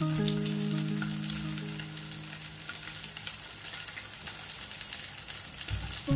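Slices of luncheon meat sizzling and crackling in hot oil in a frying pan, a steady patter of fine pops.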